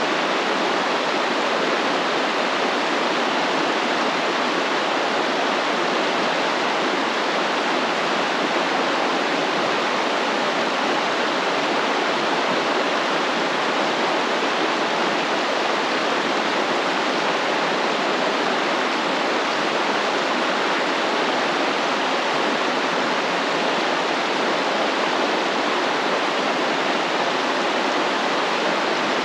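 Stream water flowing, a steady, even rushing with no distinct splashes.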